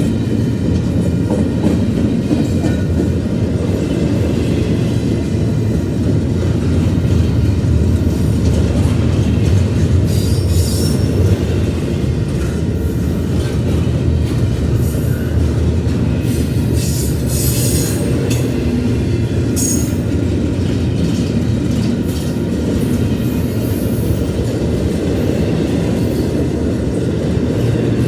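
Mixed/intermodal freight train rolling past, a steady rumble of steel wheels on rail. Several brief high-pitched wheel squeals come in from about ten seconds on.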